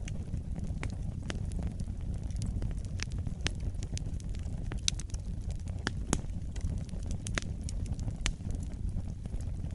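Fire burning in a fireplace, crackling with irregular sharp pops over a steady low rumble of the flames; the loudest pops come about halfway through.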